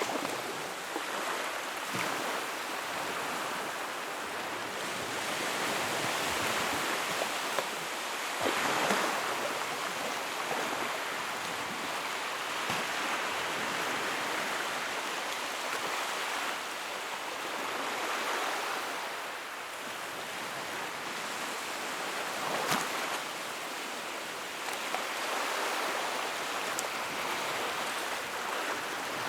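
Wood fire burning in a fireplace: a steady rushing hiss that swells and eases every few seconds, with a few sharp crackles and pops.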